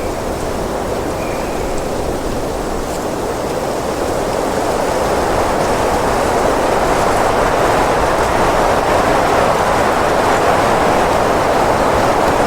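Wind blowing in a steady rush that slowly builds louder, as if a gust is rising.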